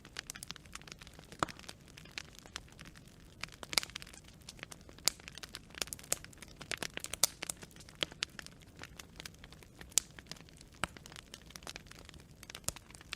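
Wood fire burning, its burning branches crackling with irregular sharp pops and snaps, a few louder cracks standing out over a low steady hiss.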